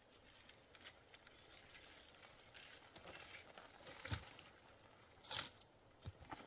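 Faint rustling and crunching handling sounds, with a sharper, louder crunch about five seconds in.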